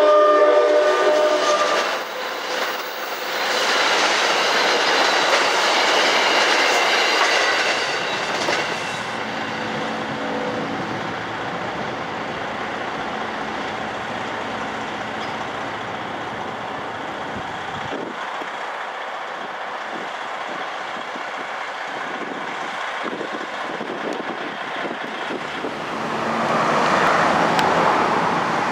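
Passenger train's horn sounding, cut off about a second in, then the train rolling through the grade crossing with wheels clacking, loud for several seconds and then settling into a steadier rumble. Near the end a road vehicle passes.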